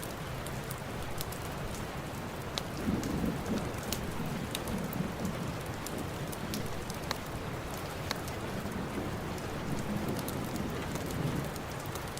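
Steady heavy rain, with low rumbles of thunder swelling about three seconds in and again near the end, and scattered sharp clicks over the top.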